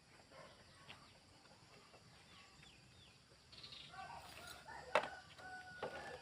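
Faint bird chirps in the background, with a sharp knock about five seconds in and a few lighter knocks near the end.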